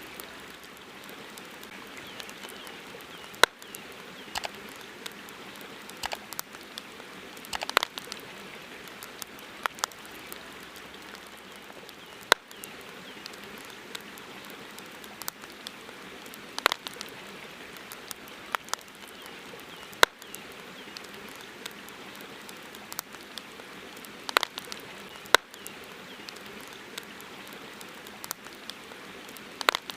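Wood campfire crackling, with irregular sharp pops, a few much louder than the rest, over a steady rushing hiss of river water.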